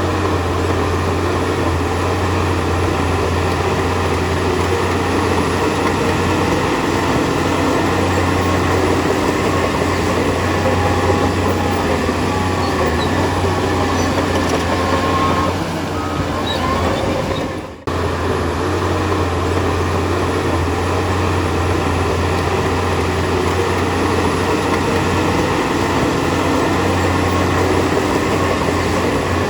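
Heavy diesel engine of earthmoving machinery running steadily under load, with a deep hum. The sound dips and cuts out for a moment about two-thirds of the way through, then comes straight back.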